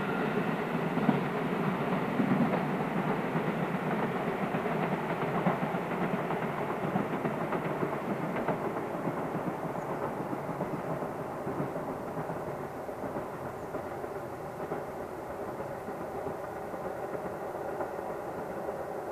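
Diesel train running on the line, its wheels rumbling on the rails, slowly fading as it draws away.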